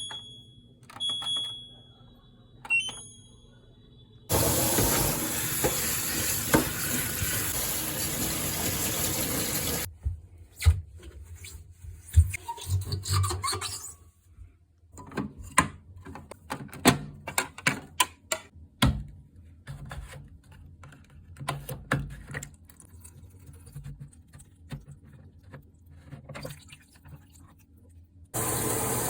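Front-loading drum washing machine: a few short electronic button beeps, then water rushing in steadily for about six seconds. After that comes a long run of scattered clicks and knocks, and the water rush starts again near the end.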